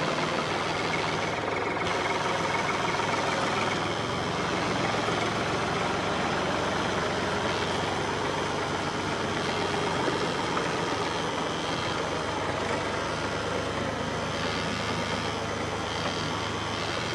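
A motor running steadily at an even pace, with a low hum under a busy mechanical rattle.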